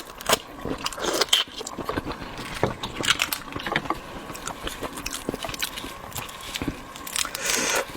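Close-miked eating of shrimp: chewing with wet mouth sounds and scattered small crackles and clicks of shell, and a longer breathy rush near the end.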